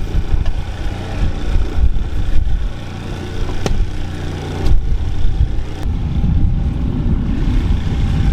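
Boat engine running steadily with a low hum under an uneven low rumble, and a sharp click a few seconds in.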